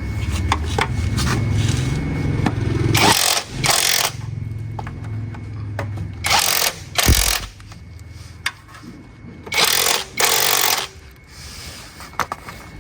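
A low mechanical hum with five loud, short hissing bursts, each up to about a second long, and a low thump about seven seconds in.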